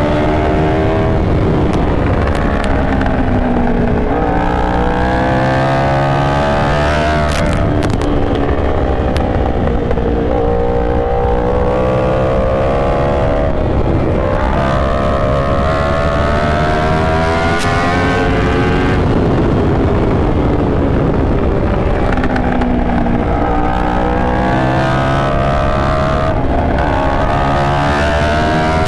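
Yamaha R1 inline-four sport bike engine under hard riding, its revs climbing over a few seconds and dropping again about five times as it accelerates and shifts or backs off.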